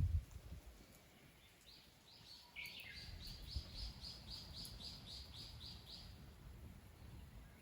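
A bird calling outdoors: a rapid run of short, high, evenly repeated notes, about four a second, lasting about four seconds. A short low thump sounds at the very start.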